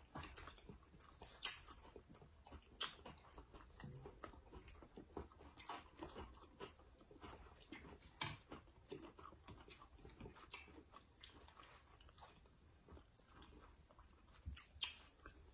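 Faint chewing and eating sounds: scattered small clicks and smacks of people eating fried catfish and fries.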